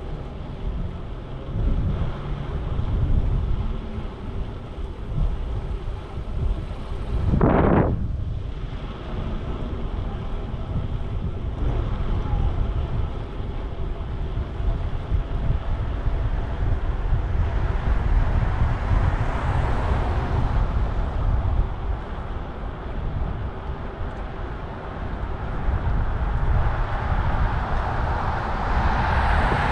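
Wind buffeting the microphone of a riding cyclist's camera, a steady low rumble, with city traffic passing. A short loud noise comes about seven seconds in, and the hiss swells around twenty seconds in and again near the end.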